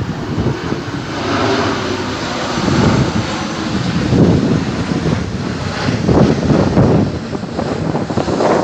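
Boeing 737-800's CFM56-7B jet engines running on final approach: a loud, steady jet rush that swells and fades irregularly, with wind buffeting the microphone.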